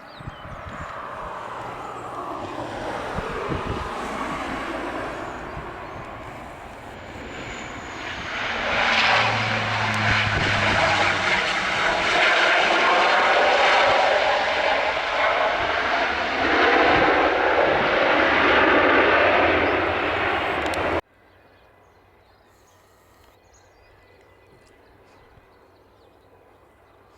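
Airliner engines during a landing: the noise builds as the aircraft comes in and grows loudest from about a third of the way in. It cuts off abruptly about three-quarters of the way through, leaving only a faint background.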